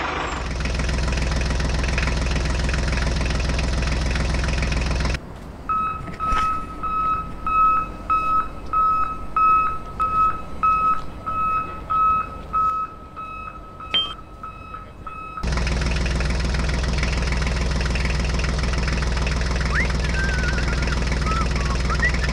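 Tractor engine running steadily. About five seconds in it gives way to a high electronic beeping, about two beeps a second, for some ten seconds, and then the engine runs on steadily again.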